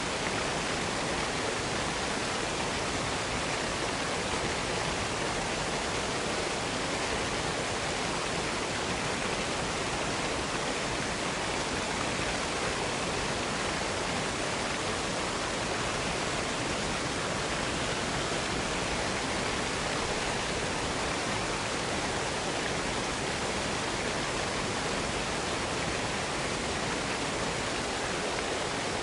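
Waterfall pouring: a steady, unchanging rush of falling water.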